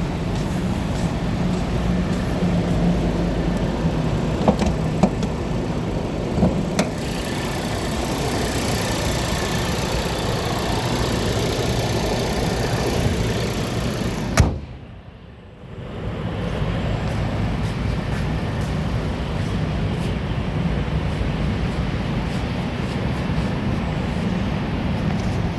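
Car engine idling steadily, with a sharp knock about halfway through, after which the sound briefly drops away and then returns.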